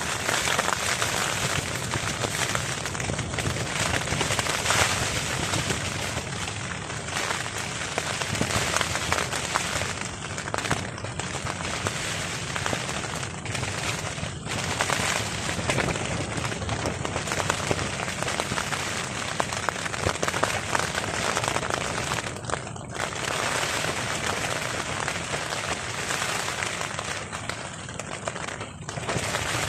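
Heavy rain drumming on a tarp overhead: a dense, steady stream of drop impacts.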